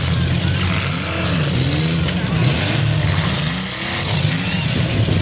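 Several demolition derby car engines running at once, revving up and down so their pitch keeps rising and falling.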